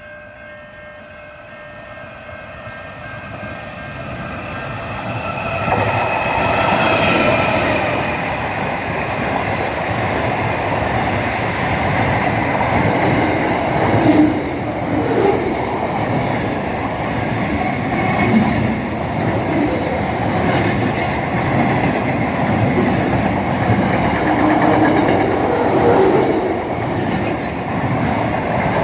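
A train approaching and passing close by. It grows louder over the first six seconds, then runs on as a steady rumble of wheels with clacking over the rail joints.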